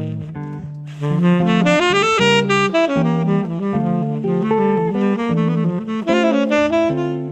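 Instrumental break in a jazz ballad recording: a saxophone plays a melodic solo over the band, opening softly, then running through quick notes from about a second in.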